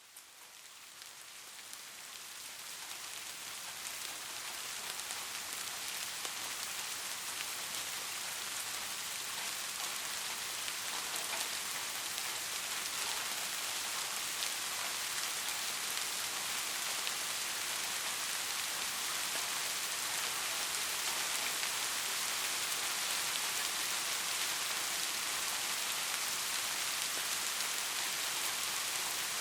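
Steady soft rain falling, an even hiss of many small drops that fades up over the first few seconds and then holds level.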